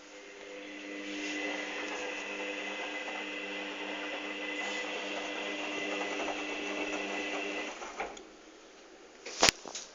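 Hoover Dynamic washing machine's motor turning the drum during the cotton 60 °C pre-wash, a steady whining hum that stops about 8 seconds in. A sharp click follows near the end.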